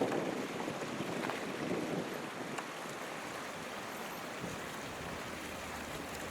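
Steady rushing wind noise on the microphone, gusting more strongly in the first couple of seconds and then settling.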